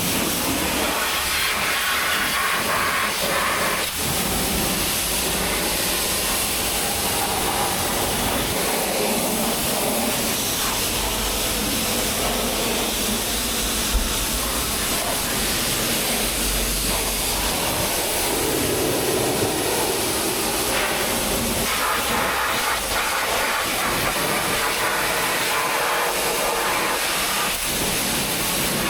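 High-pressure wash lance at a self-service car wash spraying water onto a car, a steady hiss without a break.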